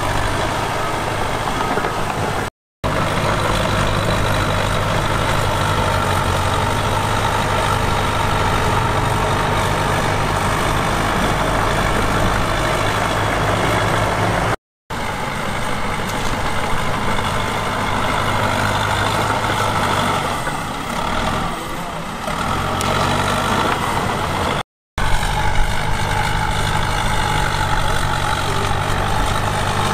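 Heavy diesel engine of earthmoving equipment running steadily. Three brief silent gaps mark cuts between clips.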